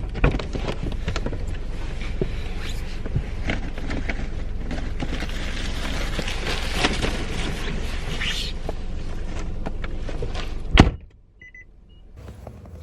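Car cabin noise with the engine running, small clicks and rustling of things being handled, then a car door slammed shut about eleven seconds in, after which the rumble drops away to much quieter surroundings.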